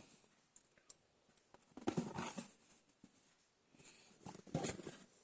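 Handling noise from the heating pad and its packaging: a click at the start, a few light ticks, and two short bursts of rustling and scuffing about two seconds in and about four and a half seconds in.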